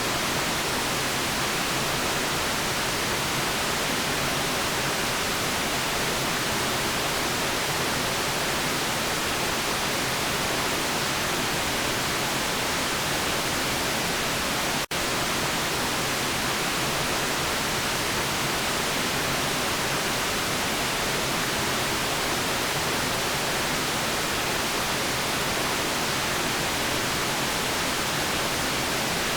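Steady white noise: an even, unchanging hiss with no other sounds in it, broken once about halfway through by a split-second dip.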